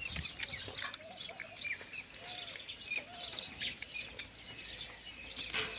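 Birds chirping and calling: many short, high chirps in quick, irregular succession, with a few lower arched calls between them.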